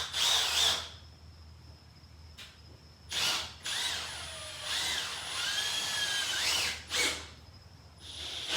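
Milwaukee M12 Fuel Gen 2 cordless drill driving a large structural wood screw with a T30 bit. It runs in several short bursts and one longer run of about three seconds in the middle, its motor whine wavering in pitch under load.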